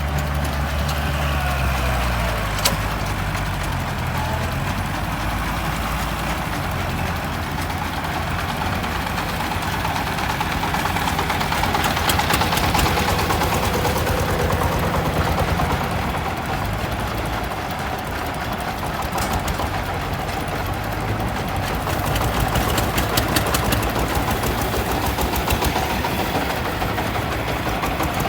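Kubota M5018 tractor's diesel engine running steadily while plowing, with a fast, even knock; it grows a little louder twice, about halfway through and again later.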